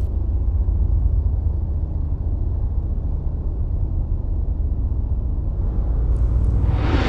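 A deep, steady low rumble. About six seconds in, a rising whoosh builds over it.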